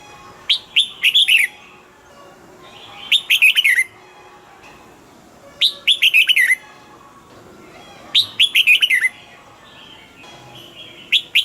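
Red-whiskered bulbul singing: short phrases of quick, clear, falling notes, repeated about every two and a half seconds, four full phrases and the start of a fifth near the end.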